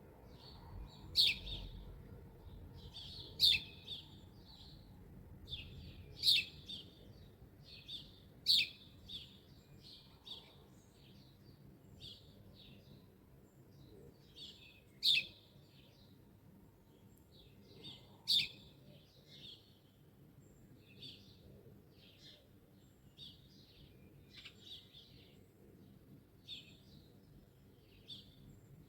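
Songbirds chirping and calling in short, repeated phrases, with about six louder, sharp calls a few seconds apart in the first two-thirds.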